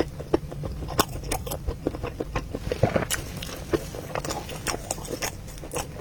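A person chewing a mouthful of rice ball, with wet mouth clicks and smacks at an irregular pace.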